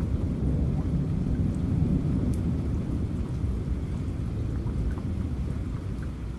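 Heavy rain with a long low rumble of thunder that swells a second or two in and slowly eases off, with scattered drops ticking over the steady hiss.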